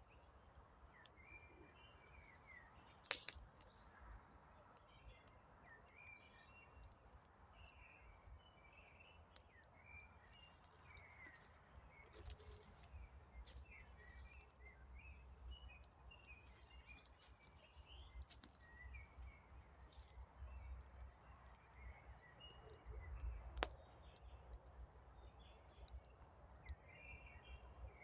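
Quiet wood campfire crackling, with two sharp louder pops among the small ticks, while small birds keep chirping.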